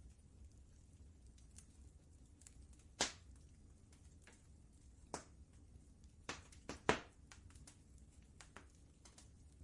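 Wood fire crackling in a fireplace: scattered sharp pops and snaps at irregular moments, a few louder ones about three seconds in and a quick cluster near seven seconds, over a soft low rumble.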